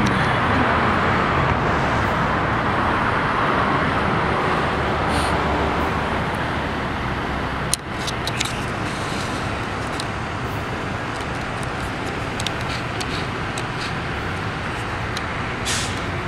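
Road traffic on a busy boulevard: cars passing with a steady tyre-and-engine rush, louder for the first few seconds and then easing. A sharp click comes about eight seconds in.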